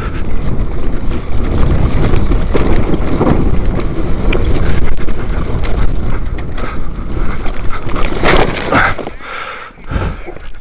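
Dirt bike running away down a steep dirt slope and crashing: heavy wind buffeting the microphone over the rumble and scrabble of the tyres, with no engine note. The noise dies away near the end as the bike comes to rest.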